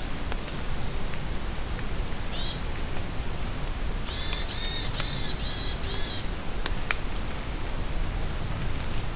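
Steady rain falling in a forest, with a songbird calling over it: a few faint high chirps early on, then a run of about five loud, high, arching chirps about four seconds in. A few sharp drip clicks stand out from the rain.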